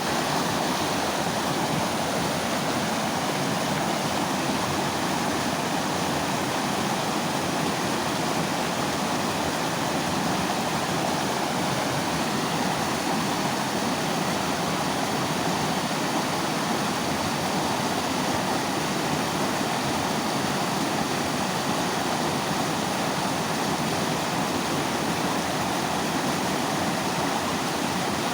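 Mountain river flowing: a steady rush of water over rocks.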